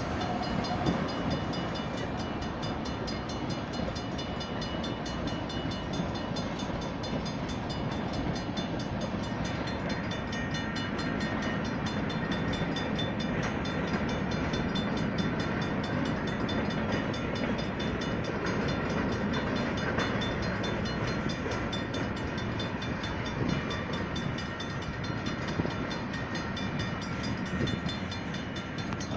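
Freight train cars rolling through a grade crossing, their wheels rumbling and clacking over the rails. The crossing's Safetran mechanical bells ring steadily over the train noise.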